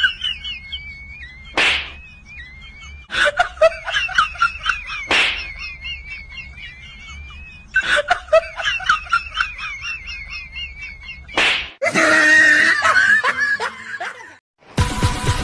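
Cartoon-style comedy sound effects: high, warbling squeaky chatter broken by three sharp slap-like hits. A dense noisy clatter follows near the end, and music starts just before the end.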